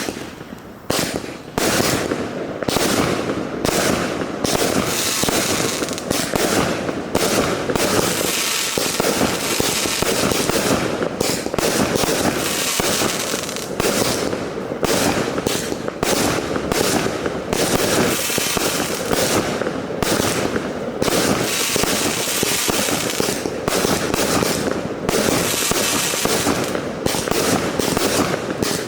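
56-shot single-ignition firework cake (Black Cat Dance of the Dragon) firing shot after shot: launches and aerial bursts following each other in quick succession, starting about a second in.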